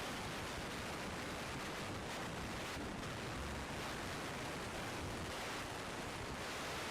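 Steady, even hiss with no tones or distinct events.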